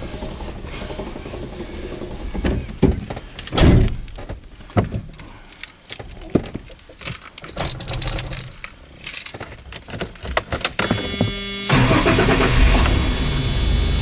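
Keys jangling and clicks of handling in the cab of a 1992 Ford Ranger, then just before 11 s the starter cranks briefly and the engine catches and runs steadily. This is a cold start after the truck has sat since about January.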